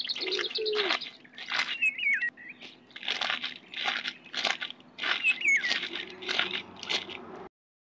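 Birds: wings flapping in repeated short bursts, with a few quick high chirps. The sound cuts off suddenly near the end.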